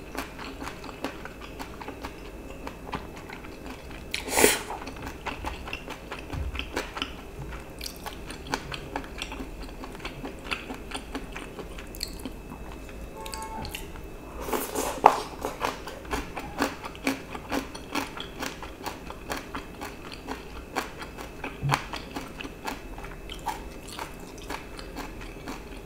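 Close-up mouth sounds of a person eating thin wheat noodles and stir-fried webfoot octopus and pork belly: wet chewing with many small clicks, and two louder bursts, about four seconds in and about fifteen seconds in.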